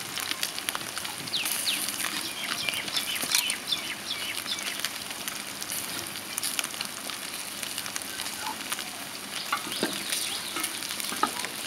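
Food frying in hot oil in a pan: a steady sizzle with many small crackles and spits.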